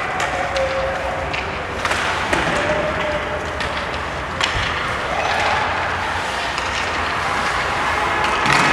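Ice hockey play on a rink: a steady wash of skates on ice and arena noise, broken by a few sharp knocks of puck and sticks against the boards, with faint voices in the stands.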